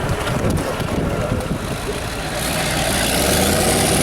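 Heavy off-road trial truck's diesel engine running, getting louder in the second half as a high hiss joins in about halfway through.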